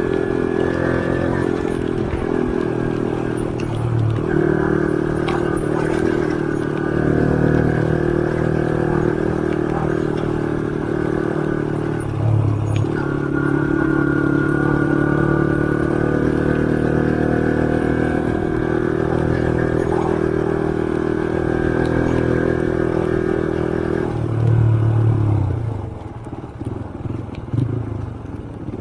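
Motorcycle engine running steadily under way, its note shifting briefly a few times, then dropping to a quieter, uneven run about 25 seconds in.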